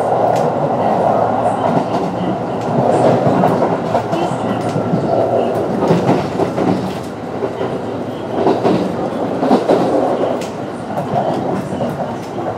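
Running noise of a Kintetsu 9020-series electric train with Mitsubishi IGBT-VVVF drive, heard on board. The wheels rumble steadily on the rails, swelling and easing, with scattered clacks over rail joints.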